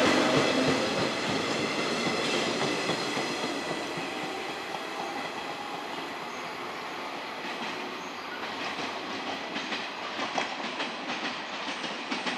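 A 115-series electric train pulling away, its running noise fading over the first several seconds. From about eight seconds in, sharp rhythmic wheel clacks over the rail joints come thicker and louder toward the end.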